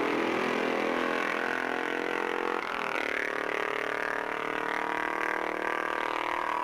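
Racing motorcycle engine running at high revs, its pitch dropping a step about two and a half seconds in and then holding steady.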